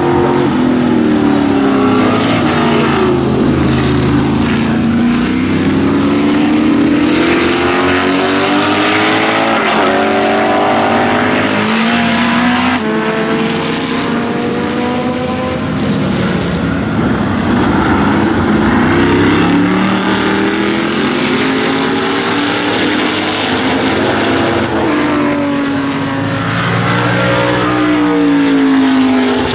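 Shadow Can-Am race cars' V8 engines running loud and unsilenced. The pitch keeps rising and falling as the engines rev up and come off the throttle, with more than one engine heard at times.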